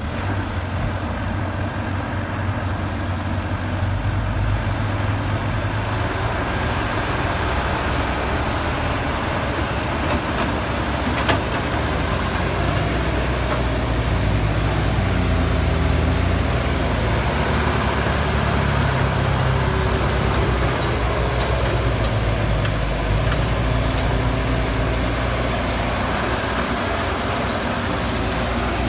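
Caterpillar excavator's diesel engine running steadily under load, its pitch wavering as the machine works. There is one sharp knock about eleven seconds in.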